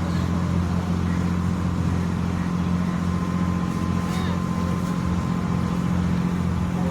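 Passenger boat's engine running steadily under way, a constant low drone with a thin steady whine above it.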